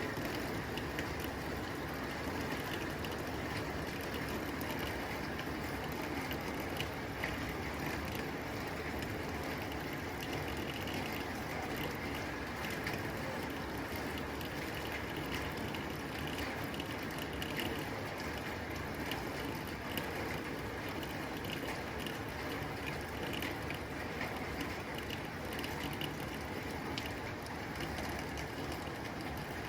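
Rain falling steadily on a tin roof: a dense, even spray of drops ticking on the metal.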